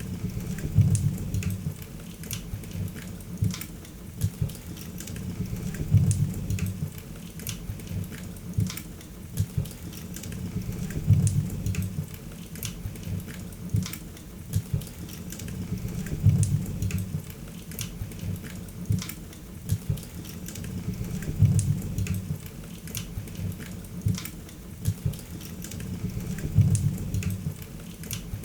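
Wood fire crackling in a fireplace: many sharp pops and snaps over a steady hiss, with a low rumble of the flames that swells about every five seconds.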